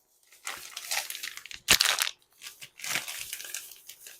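Packaging crinkling and rustling in irregular bursts as purchased items are handled, with a sharper crackle about a second and a half in.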